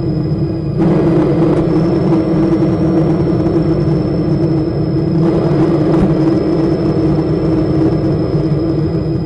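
Mark VII Aqua Jet GT 700 automatic car wash running: a steady rush of machinery and water spray with a thin constant high whine, getting louder about a second in.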